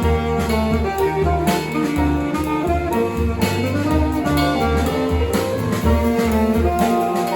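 Live jazz band of alto saxophone, piano, keyboard and drums playing an up-tempo original tune, with held melody notes over a steady drum beat.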